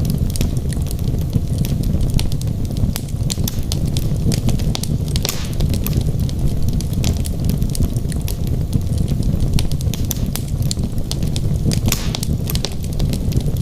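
Wood logs burning in a fireplace: a steady low rush of flame under frequent, irregular sharp crackles and pops.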